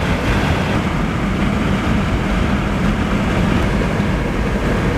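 Steady road and wind noise from a moving vehicle, with a low engine drone underneath.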